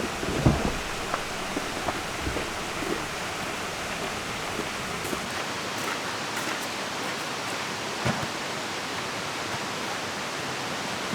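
Steady rush of a flowing river mixed with falling rain. A few soft low thumps sound about half a second in, at about two seconds and at about eight seconds.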